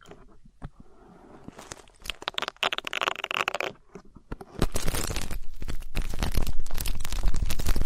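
Close-miked ear-cleaning ASMR: an ear pick scratching and crackling against the microphone. It is quiet at first, gives a burst of crackles about two seconds in, then turns into a louder, dense stretch of scratching with a low rumble from about halfway on.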